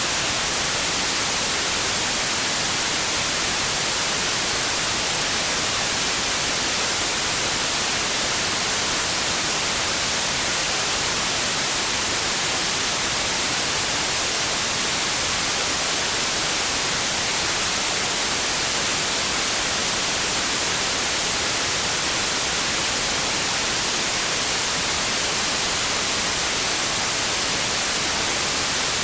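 Synthetic white noise: a steady, even hiss with most of its energy in the high frequencies, unchanging throughout.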